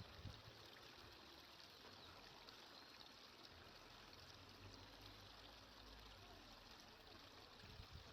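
Near silence: a faint, steady hiss of flowing water in the background.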